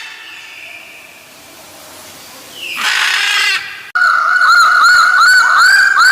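Bird calls. About three seconds in comes one short, harsh, raspy call. After an abrupt change just before four seconds, a loud, steady high tone runs under a quick string of repeated looping whistled notes.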